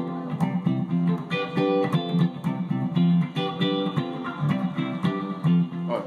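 Guitar playing a rhythmic chord progression, C to F to G and back to F, with repeated picked chords.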